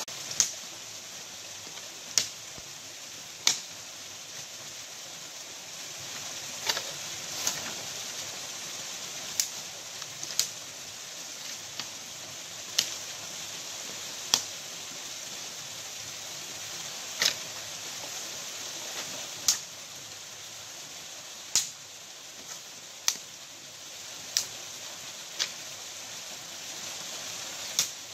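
Steady rushing of stream or waterfall water, with sharp clicks at irregular intervals, roughly one every second or two.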